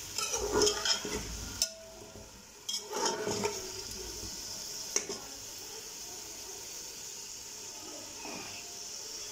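Raw chicken pieces sizzling in hot oil in a metal pot, with a steel ladle stirring and scraping against the pot in the first few seconds and a sharp click about five seconds in. After that the frying goes on as a steady sizzle.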